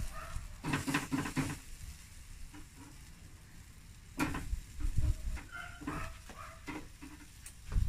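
Chicken sizzling faintly on the fire while a utensil knocks and scrapes against the cookware, with a sharper knock about four seconds in.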